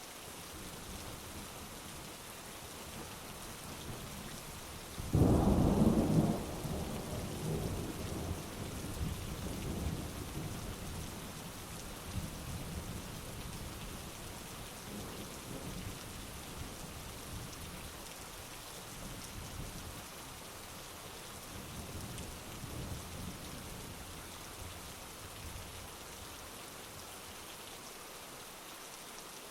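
Thunderstorm: steady heavy rain, with a sharp thunderclap about five seconds in that rolls on as a fading rumble, and fainter rumbles of thunder later.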